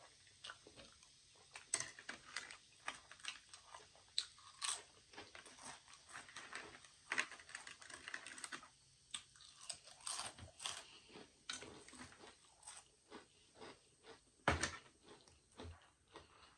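Close-miked chewing and crunching of snack chips: many short, crisp crunches and mouth sounds, with one louder knock near the end.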